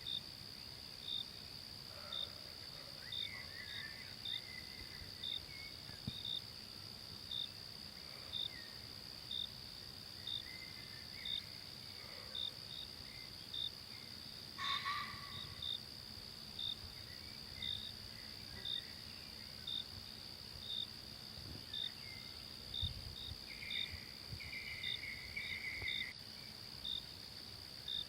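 Forest insects droning steadily, with a cricket-like chirp repeating about once a second. Scattered faint bird calls come through, one louder about halfway and a longer one near the end.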